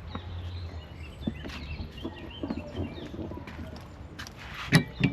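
Small birds chirping in the background over an outdoor hum, with a few sharp knocks close together near the end.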